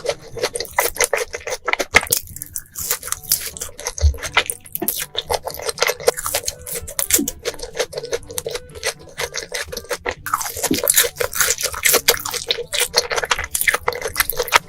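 Close-up wet eating sounds: noodles being slurped and chewed, a rapid run of wet smacks and clicks with a brief let-up about two seconds in and again about ten seconds in.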